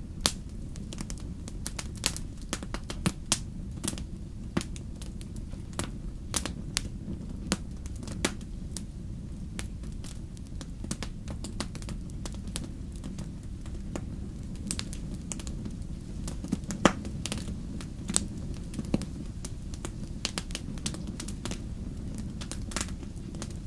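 Wood campfire crackling: irregular sharp pops and snaps over a steady low rumble of the burning fire, with one louder pop toward the end.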